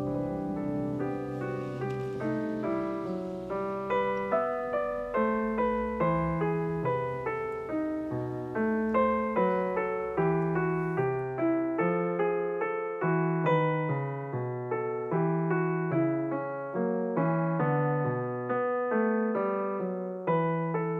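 Calm solo piano music, a gentle flowing melody of soft repeated notes over low bass notes.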